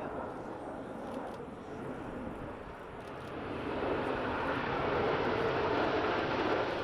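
Jet engines of fighter jets in an aerobatic display, a steady rushing noise that grows louder about halfway through as the jets come nearer.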